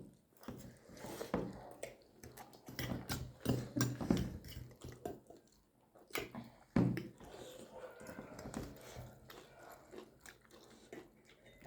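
Close-up chewing and lip smacking of people eating momo dumplings, irregular wet clicks and smacks.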